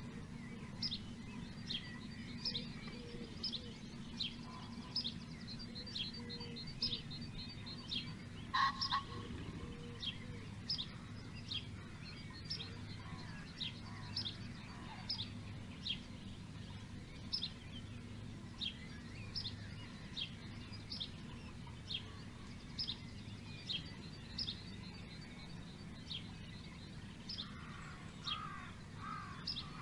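Birds calling: one bird repeats a short, high, sharp note about every three-quarters of a second, with high trilling chatter between the notes. A louder, lower call comes about nine seconds in, and harsher lower calls come near the end, all over a steady low hum.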